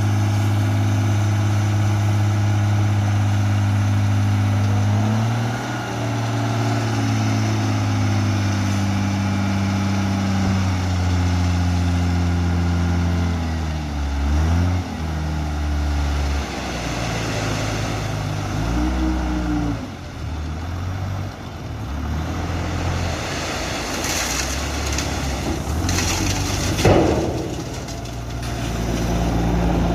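Dump truck's diesel engine running hard, its pitch stepping down and then dipping and rising several times. Toward the end a rushing, clattering noise comes in, with one sharp bang.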